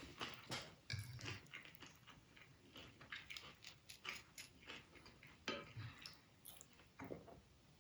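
Quiet eating sounds: chewing with irregular small clicks and taps of cutlery against a dish, and a couple of soft low knocks.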